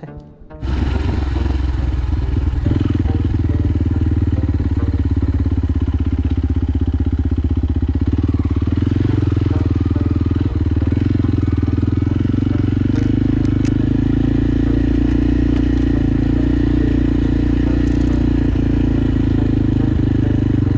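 Motorcycle engine running steadily while riding, cutting in abruptly about half a second in.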